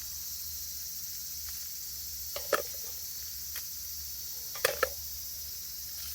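Insects chirring steadily in a high, even drone, with a few short sharp clicks or knocks scattered through it.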